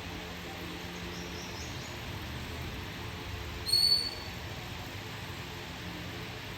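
A bird gives one short, high call a little past halfway, the loudest thing heard, after a few faint high chirps, over a steady hiss.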